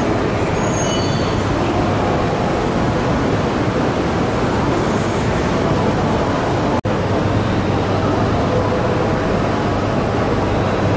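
Coupled E2 and E3 series shinkansen at a station platform: a steady, noisy hum from the train, with a faint high wheel squeal fading out in the first second or so. The sound drops out for a moment about two-thirds of the way through.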